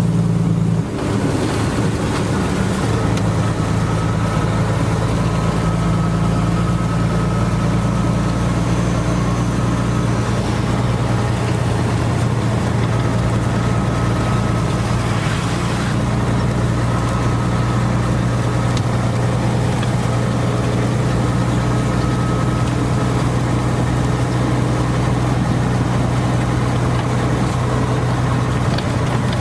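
Steady rain, an even hiss with faint scattered ticks, over a constant low engine hum.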